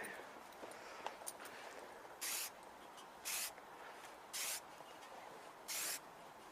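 Aerosol spray can of black paint hissing in four short bursts, about a second apart, as paint is sprayed onto motorcycle exhaust baffles.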